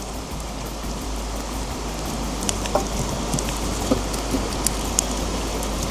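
Steady rush of a mountain stream, with a wood campfire crackling: a few sharp pops from about two and a half seconds in.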